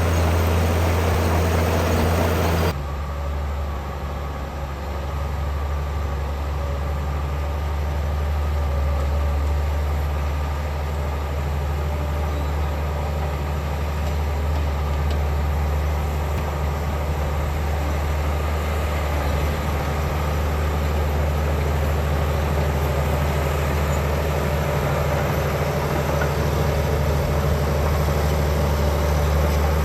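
Heavy diesel engine of earthmoving machinery running steadily with a deep, even hum, with an abrupt change in the sound about three seconds in.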